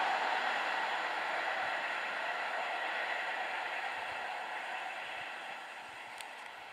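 EN57AL electric multiple unit running away along the track, its rolling noise fading steadily.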